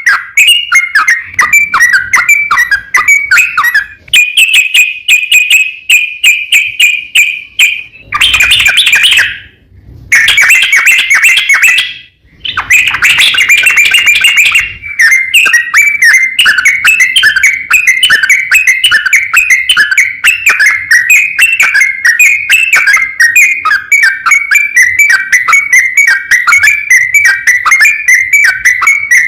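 Yellow-vented bulbul singing a long rolling song of rapid bubbling notes, the kind of song used to lure and provoke other bulbuls. It breaks off briefly twice, around a third of the way in.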